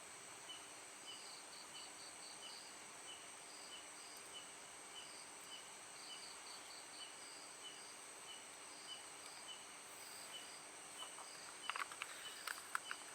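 Chorus of insects: a steady high-pitched buzz, a short chirp repeating about twice a second, and bursts of quicker, higher chirps. A few faint clicks come near the end.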